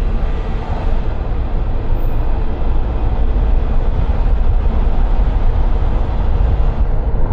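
A car driving along city streets: steady road and engine rumble.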